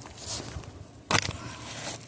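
A single short crunching scrape on asphalt roof shingles about a second in, with faint rustling around it.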